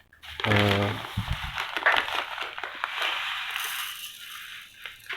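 Rustling and crinkling as bird feed is handled and given to the bird, with a few low knocks, after a brief spoken word near the start; the handling noise fades toward the end.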